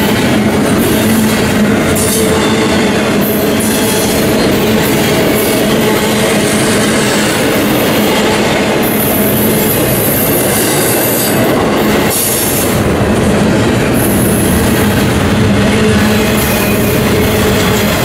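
Double-stack intermodal freight train rolling past close by: loud, steady rumble of the well cars' steel wheels on the rails, with a steady tone running over it.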